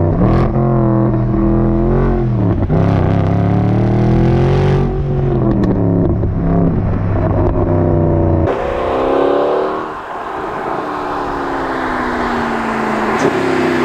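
Mercedes-AMG 6.3-litre naturally aspirated V8 accelerating hard, its note climbing and dropping back at each of two upshifts. About eight seconds in, the sound changes to a rush of wind and road noise with the engine note falling in pitch.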